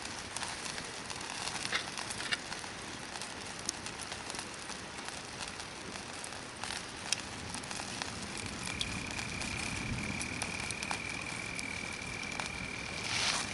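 Hardwood campfire burning, crackling with scattered small pops over a steady hiss. A thin, steady high whistle comes in about two-thirds of the way through and holds to the end.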